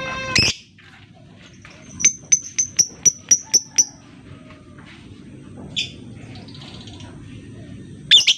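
Lovebird calls: a shrill call at the start, then a quick series of about eight sharp, high chirps, roughly four a second, a scattered call or two, and a loud shrill squawk near the end.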